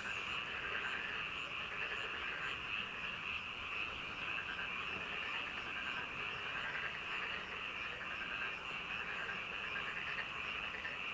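A chorus of many frogs calling at once: a steady, dense trilling with small quick calls repeating over it.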